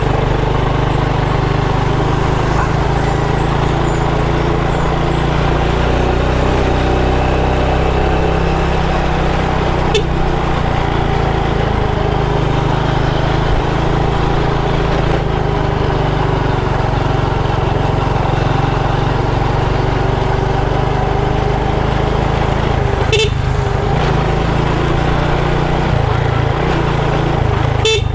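Motorbike engine running steadily while riding. A few brief sharp clicks stand out above it, one about ten seconds in and two near the end.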